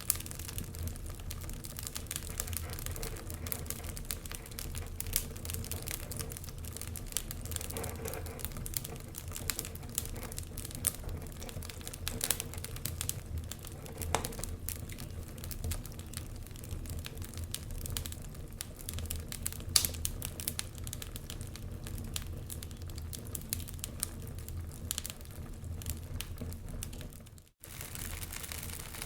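Wood fire in a fireplace crackling and popping irregularly over a low, steady rumble of the flames, with one louder pop about twenty seconds in. The sound cuts out briefly near the end.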